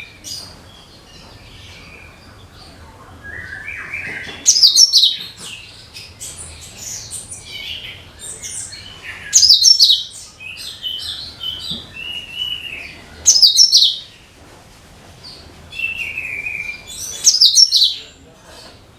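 Cucak kinoi singing: a loud, high, rapid phrase about every four seconds, four times, with softer chirps and short warbles in between.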